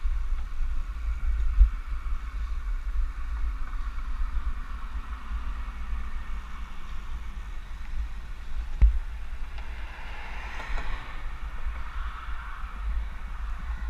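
Wind buffeting the microphone of a bicycle-mounted action camera while riding, a steady low rumble with a few sharp knocks from bumps. A louder noisy swell passes about ten seconds in.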